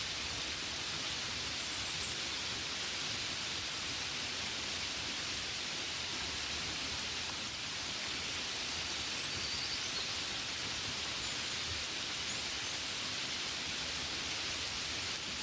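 Gentle, steady rain falling on a window: a continuous even hiss with no let-up.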